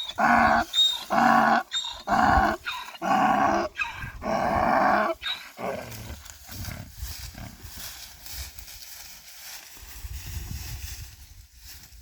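An animal calling over and over in rough, loud calls about half a second long, some seven in the first five seconds, then stopping, leaving only faint low rumbling noise.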